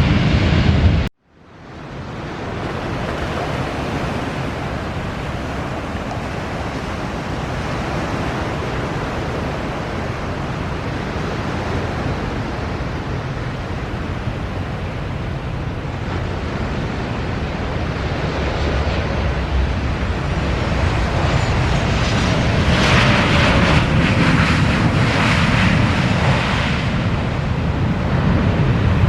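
Jet airliner engines during a landing: a steady, noisy rush that grows louder toward the end, with a faint falling tone as the aircraft passes. Wind noise sits on the microphone. The sound cuts out for a moment about a second in.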